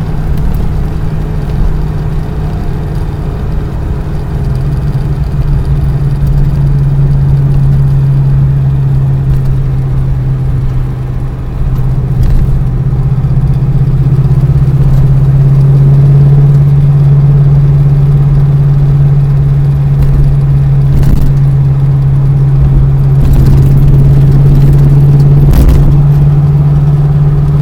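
Motor vehicle running with a steady low drone, with a few short knocks and rattles in the second half.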